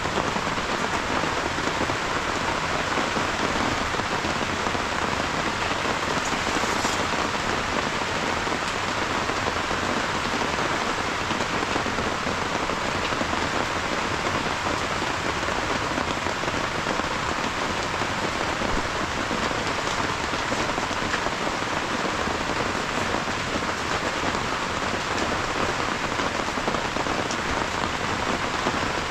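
Steady heavy rain, a dense even hiss of drops falling on a surface.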